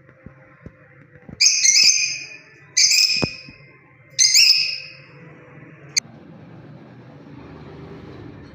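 Lovebird giving three loud, shrill chirping calls about a second apart, each lasting around half a second. A single sharp click follows a second later, over a faint low rumble.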